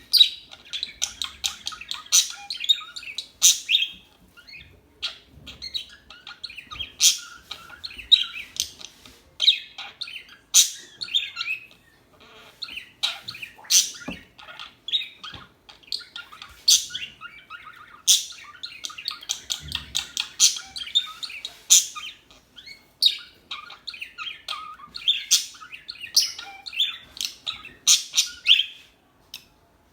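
Small songbirds chirping and twittering: a dense run of quick, high, sharp notes with only brief pauses.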